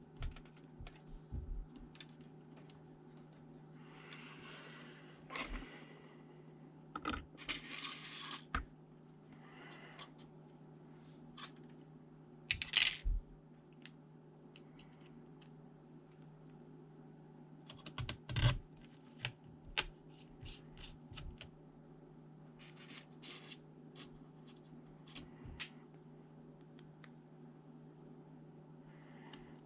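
Irregular small clicks, taps and clinks, with a few short scraping rustles, from hands working on the opened laptop's parts and screws, over a steady low hum.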